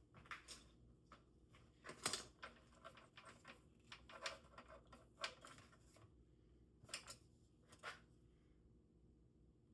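Faint, scattered small clicks, snips and rustles of hands working inside an opened MIG gun handle, its taped trigger wiring being picked apart; the sharpest click comes about two seconds in.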